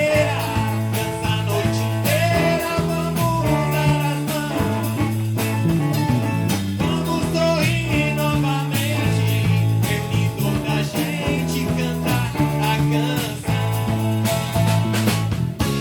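Live band playing a rock song: drum kit, electric bass, electric guitar and viola caipira.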